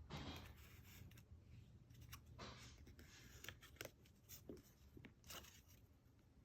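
Faint rustling, creasing and scraping of origami paper being handled and folded, in scattered soft clicks.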